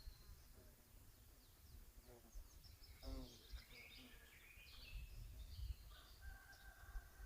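Faint songbirds singing high, quick chirps and trills, busiest in the middle, with a distant rooster's crow dropping in pitch about three seconds in. A low rumble of wind on the microphone runs underneath.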